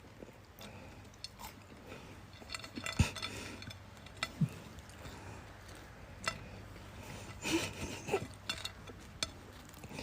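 Scattered light clinks and knocks of small hard objects, irregular and short, one sharper knock about three seconds in.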